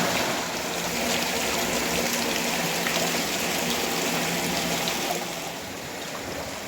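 Steady rush of river water flowing at a weir, dropping somewhat quieter about five seconds in.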